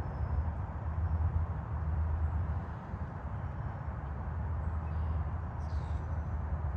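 Steady low rumble of distant highway traffic, with a few faint high bird chirps and one brief bird call near the end.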